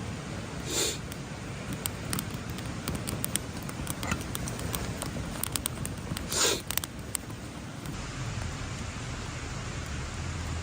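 Wood campfire burning, crackling with scattered sharp pops over a steady hiss, with two brief rushing bursts, about a second in and again about six seconds in.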